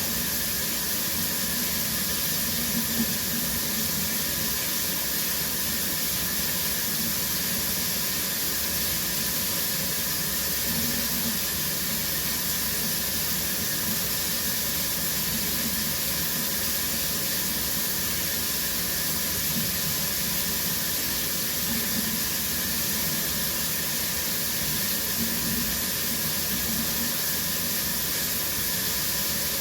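Shower running steadily, water spraying from the showerhead with an even hiss.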